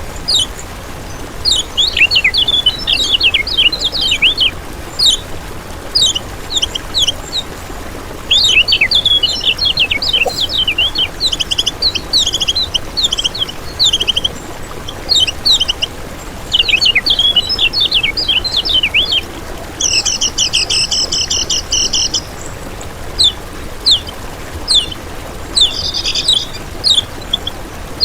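Kecial kuning, a small yellow white-eye, singing in bursts of fast, high chittering notes with short pauses between phrases, one buzzier phrase about two-thirds of the way through. This is a masteran recording of its song, used to lure wild birds and train caged ones.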